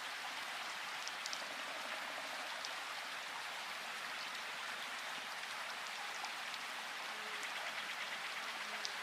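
Steady rain falling, with sharp ticks of single drops now and then.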